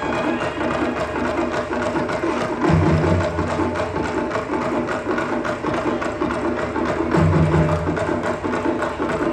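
Live band music at a concert, played through a loud sound system: a busy percussion rhythm throughout, with a deep bass note coming in three times for about a second each.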